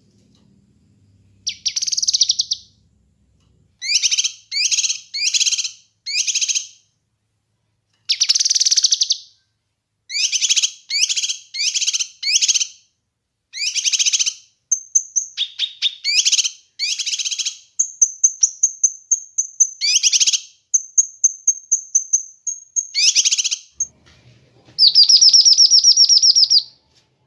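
Kinoi bird singing: a series of rapid, high trilled phrases, each about a second long, separated by short pauses. About halfway through, a thin, steady high whistle joins between the phrases, and a longer, louder trill comes near the end.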